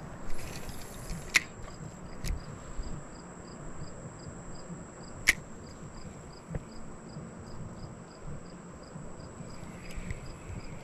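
Insects chirping in an even rhythm, about two chirps a second, over a steady high buzz. A few sharp clicks stand out, the loudest about five seconds in.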